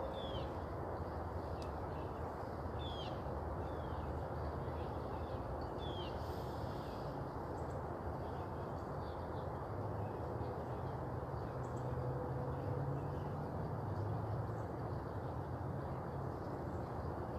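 Outdoor bird calls: short, quickly falling chirps repeat every few seconds, over a steady low background rumble.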